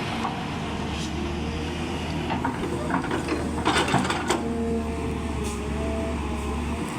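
Heavy diesel engine running steadily, with a short run of metallic clanks and knocks about halfway through.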